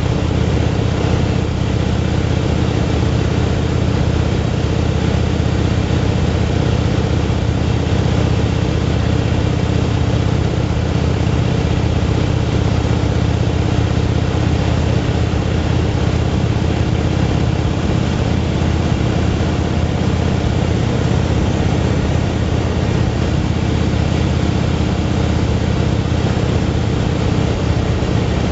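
Motorcycle engine running at a steady speed while cruising on the road, its note holding level with no revving or gear changes.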